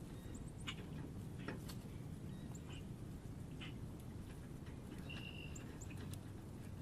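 Small birds at a feeder calling: scattered short, high chirps and ticks, with one longer held note about five seconds in, over a steady low background rumble.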